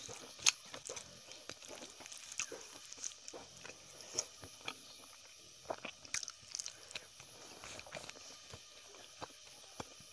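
A person chewing and smacking their lips on a mouthful of rice eaten by hand, with many irregular wet mouth clicks and smacks, the sharpest about half a second in.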